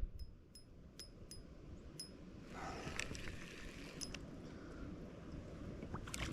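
A string of light metallic clicks with a short ringing tail, about three a second for the first two seconds and once more later. A brief rustle or splash comes about two and a half seconds in.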